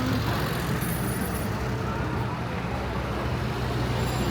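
A motor vehicle's engine running steadily close by, a low hum over the general noise of a busy street.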